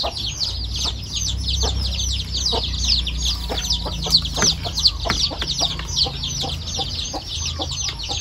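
Birds chirping without pause: a rapid string of short, high, falling peeps, several a second. Spoons clink on plates now and then, and a low rumble runs through the first half.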